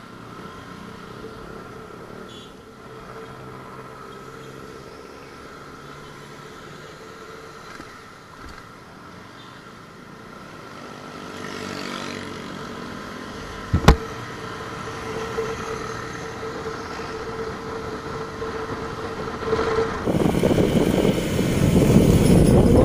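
Motorcycle running while riding, a steady engine and road noise that grows much louder and rougher about twenty seconds in, with one sharp click about fourteen seconds in.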